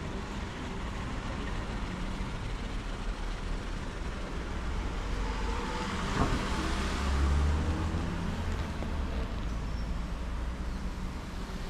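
City street traffic, with a motor vehicle passing close a little past halfway: a low engine rumble and road noise swell, then fade.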